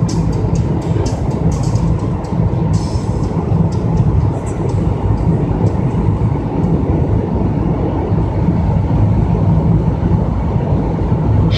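Steady rumble of a 2008 Subaru Outback on the move, heard from inside the cabin: tyre and road noise over the 2.5-litre flat-four engine, with a few light ticks in the first few seconds.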